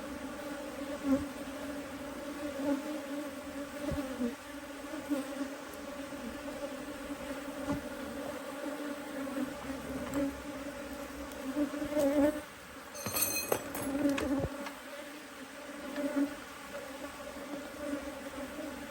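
Honeybees buzzing around an open hive, a steady hum, with a few light knocks now and then and a brief high scrape about two-thirds of the way in.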